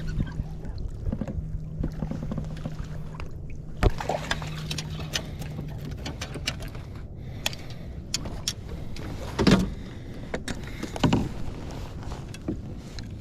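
Fishing kayak on the water: scattered knocks and clatter against the hull over a background of water and wind noise, with the loudest knocks about four and nine and a half seconds in. A steady low hum runs through the first half.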